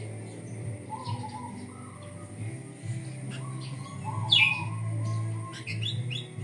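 Sooty-headed bulbul (kutilang) chirping in short calls, with one loud falling call about four seconds in and a quick run of rising chirps near the end, over a steady low hum.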